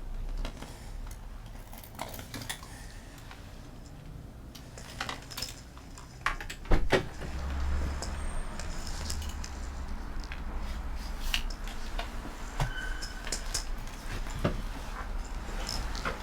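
Handling noise: scattered clicks, clinks and knocks over a low steady rumble, the loudest knock about seven seconds in.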